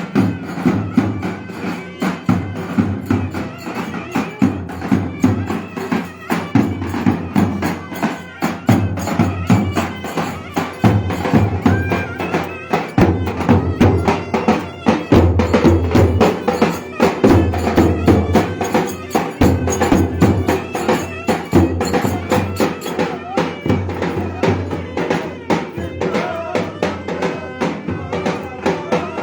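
Turkish Black Sea folk dance tune (oyun havası) played by a live folk group: a melody instrument over fast, steady, driving percussion.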